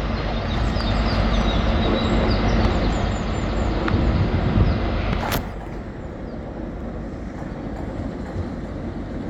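A train running through the station, a steady low rumble with many short high-pitched squeaks over the first three seconds. A sharp click comes about five seconds in, after which the sound is quieter.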